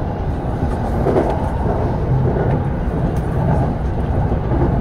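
JR East E231 series electric train running along the line, heard from inside the train: a steady rumble of wheels on rails.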